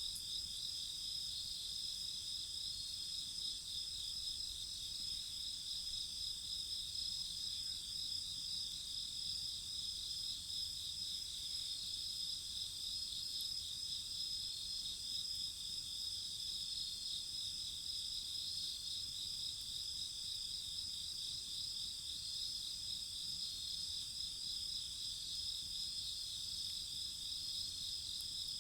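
A steady night chorus of crickets and other insects: several high trills at once, the lowest of them pulsing quickly and evenly.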